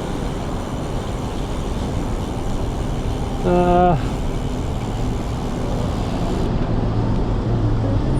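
Steady wind and traffic noise from a bicycle riding through city traffic, broken about three and a half seconds in by a single half-second horn blast.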